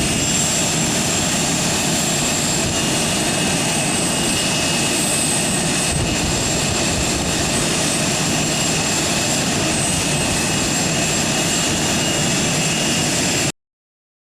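Jet aircraft engines running steadily, a loud wide rushing noise with high whining turbine tones. The sound cuts off abruptly near the end.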